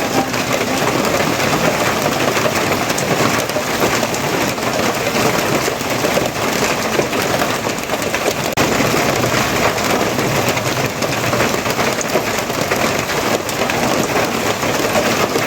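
Steady, heavy rain falling and pattering on surfaces, an even unbroken hiss.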